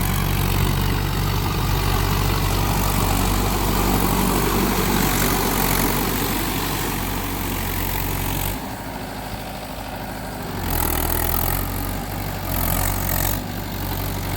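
Mahindra 4x4 tractor's engine running steadily, dropping off for about two seconds past the middle before picking up again.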